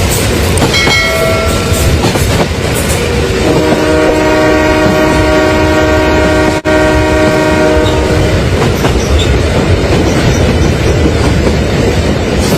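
Train horn sounding: a short blast about a second in, then one long held chord lasting about four seconds, over the steady rumble and clatter of a running train.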